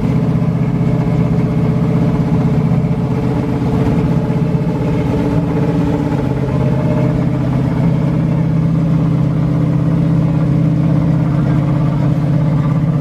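A car engine running steadily at an even speed, with a deep, constant exhaust note.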